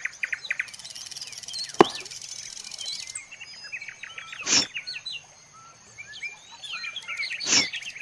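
Birds chirping, many short quick calls one after another, with a sharp click about two seconds in and two brief louder strokes, one near the middle and one near the end.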